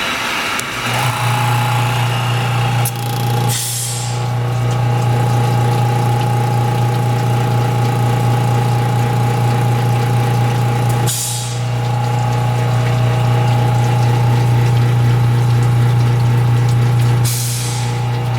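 Air compressor of a Reichmann ski tuning machine switched on about a second in and running with a steady hum. Three short hisses of air break in along the way.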